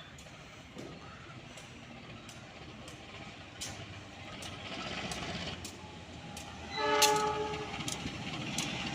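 Train approaching, the rumble growing louder and wheels clicking rhythmically over the rail joints. Its horn sounds one short blast about seven seconds in, the loudest sound.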